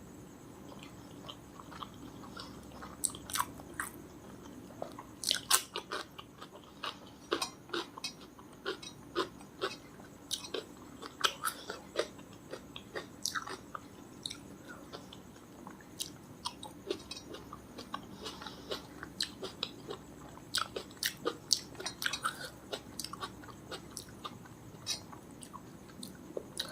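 Close-miked eating: chewing with wet mouth clicks and smacks, a rapid irregular run of short sharp clicks throughout.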